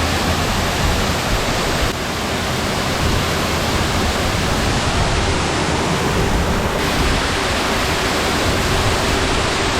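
Rain-swollen waterfall crashing down in full spate: a loud, steady roar of water, too strong to stand under.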